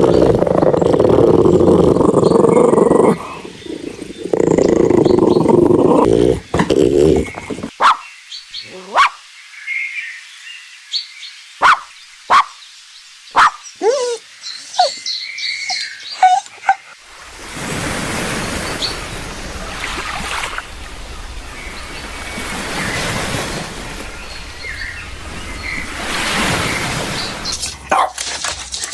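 A puppy vocalising. It gives two long rough growls in the first six seconds, then short sharp barks and yips scattered over the next ten seconds. A swelling rushing noise fills the rest of the time.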